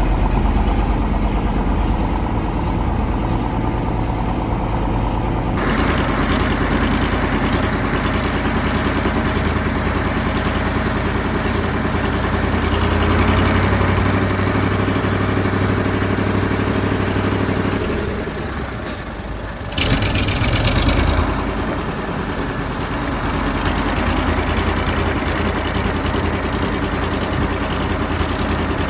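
1985 KAMAZ 4310 6x6 truck's V8 diesel engine running steadily under way off-road. About two-thirds through, the engine note drops briefly, then a sharp click and a short hiss of air are heard before the engine picks up again.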